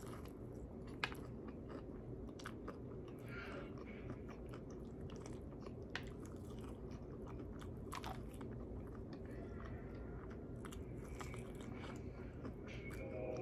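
Close-up chewing and biting of crispy fried chicken on the bone: wet mouth sounds with sharp crunches now and then.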